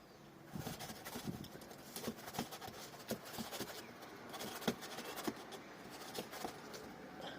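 Faint, irregular taps and scuffles of two seagulls fighting beak to beak.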